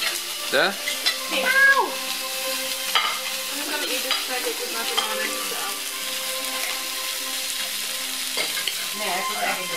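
Meat and mushrooms sizzling on the hot plate of a tabletop gourmet grill, a steady frying hiss. Steady held tones lie under it throughout, with a few sliding tones between about half a second and two seconds in.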